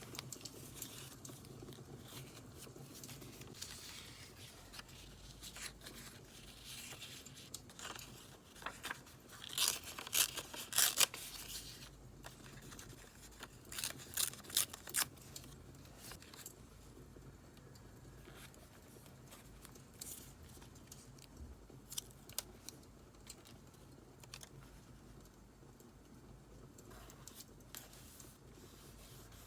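Paper being handled for journal decorating, with two short spells of rasping tearing strokes about ten and fourteen seconds in and soft handling noises between. Scattered faint crackles of a wood fire sit underneath.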